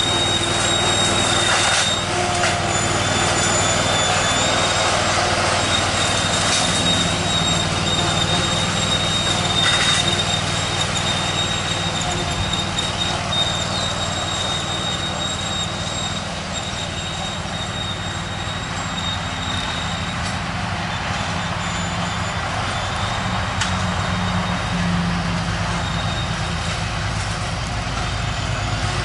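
A train rolling past, its wheels squealing in a thin high tone that breaks off and comes back, over a steady rumble of the cars.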